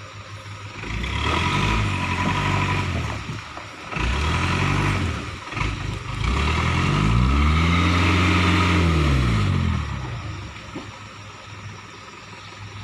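Vehicle engine revved hard three times, the last rev the longest, its pitch climbing and then falling away, with a rushing noise above it. This is typical of a vehicle stuck on a slippery road trying to pull itself free.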